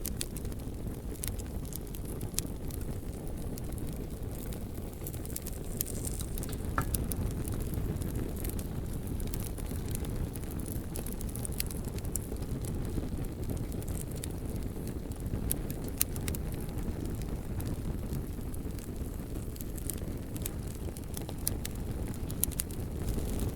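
Bonfire of burning logs crackling, with scattered sharp pops and snaps of the wood over a steady low rumble.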